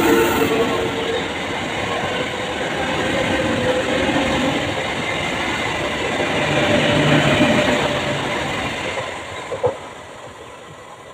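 EMU suburban passenger train running past a platform at speed, its noise fading away near the end as the last coach goes by, with one sharp click just before it dies down.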